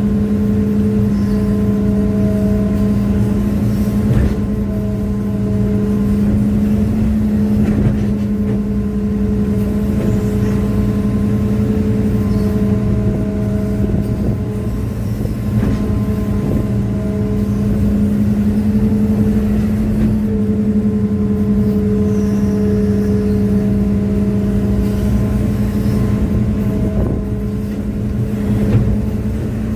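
Hitachi excavator's diesel engine running steadily under load, with higher tones that come and go over the steady drone and a few scattered knocks, as the machine works while bogged down in soft ground.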